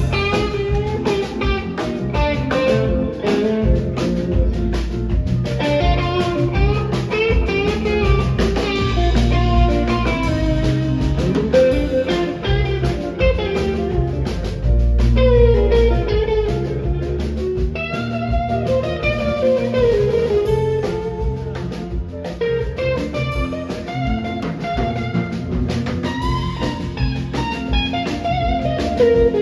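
Live rock band playing an instrumental passage: a guitar lead with bending, gliding notes over bass and a drum kit keeping a steady beat.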